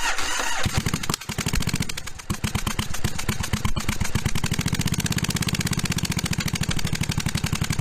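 1982 Yamaha Virago 750 V-twin engine being cranked with some choke on. It catches within a second, stumbles briefly, then settles into a steady, even idle.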